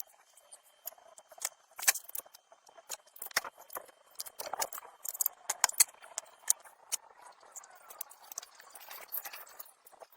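Irregular sharp clicks and light knocks of hand work, scattered unevenly over a faint background hiss.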